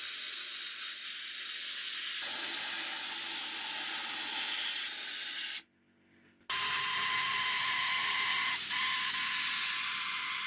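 Steady hiss of compressed air from a workshop air tool, in two spells. A quieter one stops about five and a half seconds in; after a short silence a louder one starts and fades near the end.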